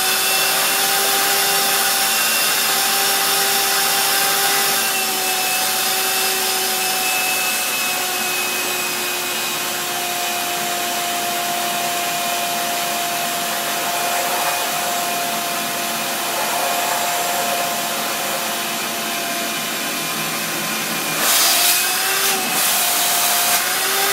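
Shop vac running steadily while it sucks standing water out of a dishwasher, its motor whine sagging slightly in pitch at times. Near the end it gives a few louder surges of rushing noise.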